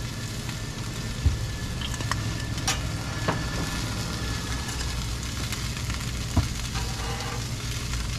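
Sausages and shredded vegetables sizzling steadily on a flat-top griddle, with a couple of sharp knocks, one a little over a second in and another about six seconds in.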